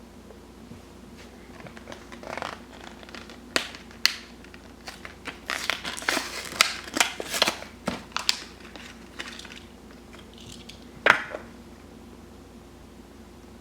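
Crinkling and crackling of plastic packaging being handled and pulled at, with scattered clicks and one sharp snap about eleven seconds in.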